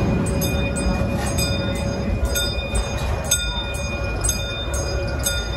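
Theme-park railway train rolling along the track, heard from aboard: a steady low rumble with repeated sharp clacks of the wheels over the rails, and a faint steady high tone.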